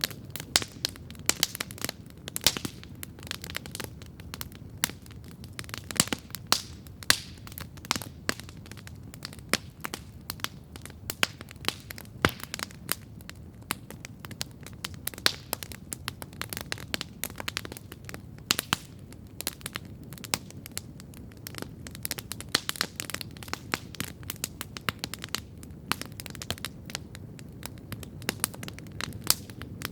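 Campfire burning and crackling: a dense, irregular run of sharp wood pops and snaps, several a second, some much louder than the rest, over a soft low rush.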